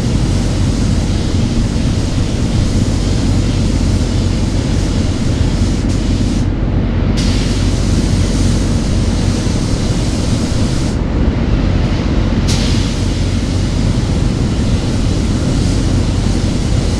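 Paint spray gun hissing as it sprays base coat onto an engine block, over a steady low hum. The hiss thins out twice as the trigger is eased off: once about six and a half seconds in, and for about a second and a half near the twelve-second mark.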